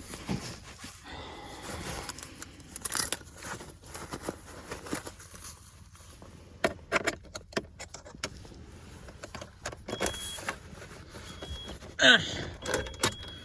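A bunch of keys jangling and clicking, in scattered bursts of rattles that are densest past the middle, with a faint high electronic beeping tone near the end.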